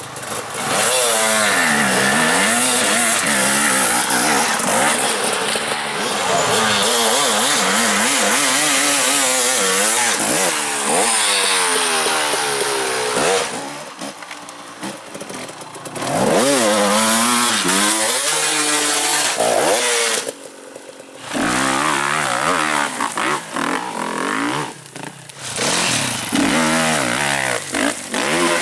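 Enduro dirt bike engines revving hard, the pitch climbing and falling again and again as the throttle is worked, with two short lulls partway through.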